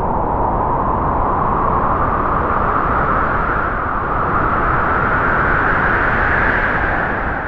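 Strong wind howling, a steady rush with a whistling tone that slowly rises and falls in pitch and dips near the end.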